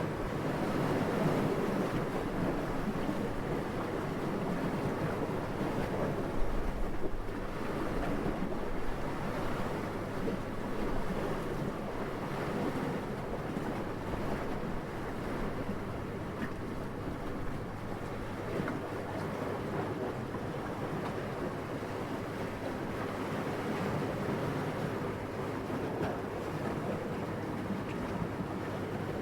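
Steady wind ambience, rising and falling gently, with a brief louder gust about six and a half seconds in.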